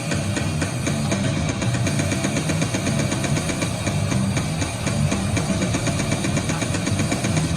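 Harsh, distorted goregrind noise music: a dense wall of noise over a heavy low rumble, driven by a fast, even rattle of percussive hits.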